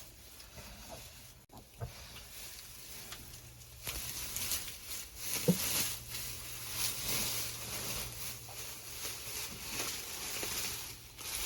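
Dry straw rustling and crackling as it is pushed about in a nest, starting about four seconds in, with one short low sound about halfway through.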